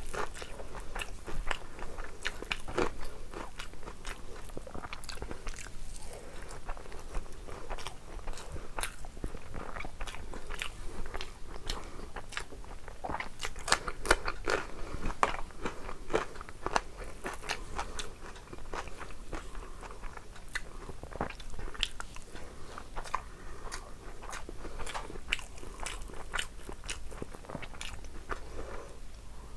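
Close-miked eating: a person chewing and biting mouthfuls of rice and curry eaten by hand, a dense run of sharp wet mouth clicks.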